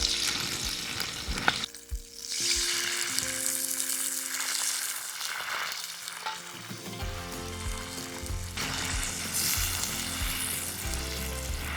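Food sizzling in a hot frying pan, a steady hiss that drops away for a moment about two seconds in and then comes back.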